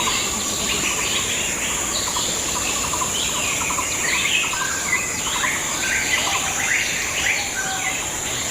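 Several birds chirping and calling in quick, overlapping short notes, over a steady high-pitched insect drone.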